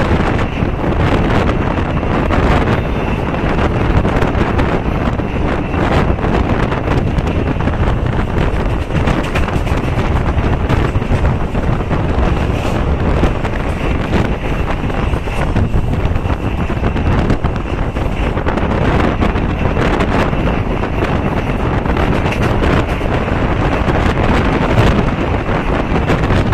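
Steady rush of wind over the microphone, together with the running noise of a MEMU passenger train at speed, its wheels on the rails, with faint scattered knocks.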